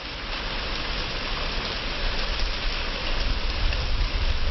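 Heavy rain pouring steadily in a severe storm, growing slightly louder, with a low rumble underneath.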